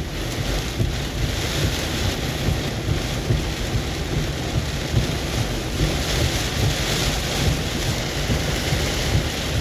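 Strong thunderstorm wind gusts buffeting the microphone: a steady rushing with a heavy low rumble that comes in suddenly at the start.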